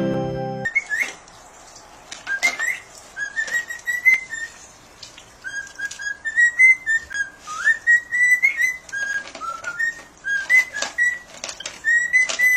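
Short high whistled notes, many of them rising at the end, repeated in quick irregular runs with a few sharp clicks between them; background music cuts off just before they start.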